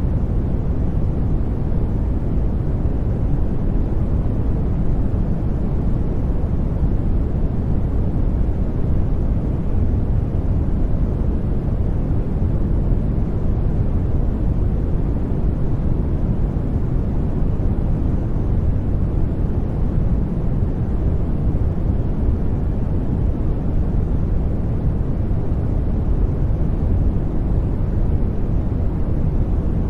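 Steady sleep noise: an even, unbroken hiss weighted toward the low end, deep rather than bright, with nothing else in it.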